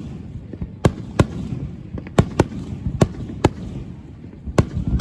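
Aerial fireworks shells bursting overhead: about seven sharp bangs at uneven intervals, some in quick pairs, over a continuous low rumble.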